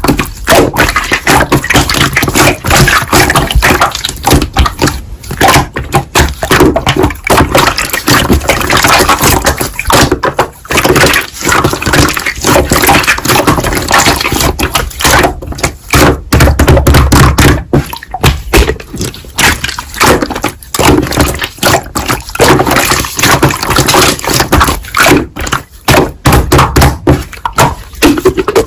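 Slime being squeezed and pressed by hand: a dense, irregular run of wet clicks and pops.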